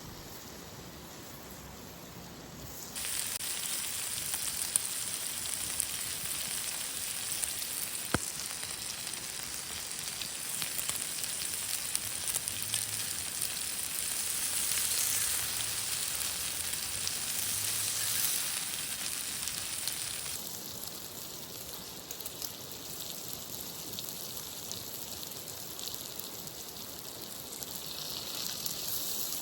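Food sizzling in a frying pan, a dense steady hiss with small pops that starts suddenly about three seconds in and drops back to a fainter hiss about twenty seconds in.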